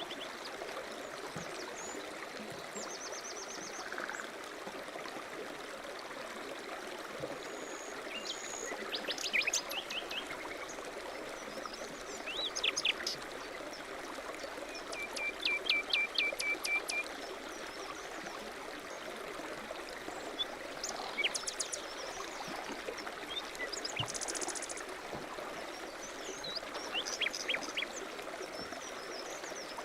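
A stream running with a steady rush, while small birds call over it in several short bursts of chirps and quick trills.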